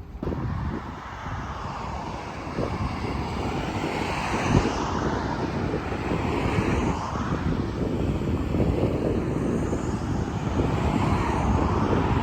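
Aircraft passing low overhead: a steady engine rush with slowly sweeping, phasing tones, growing gradually louder.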